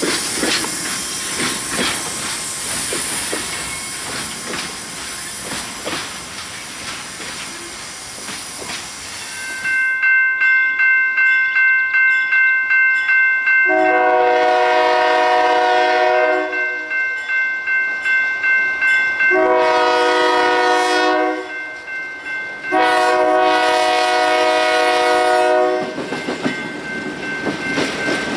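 Ore train's cars rolling past with steady wheel clatter. Then, after an abrupt change, a railroad crossing bell rings steadily while a diesel locomotive sounds three long blasts on its horn.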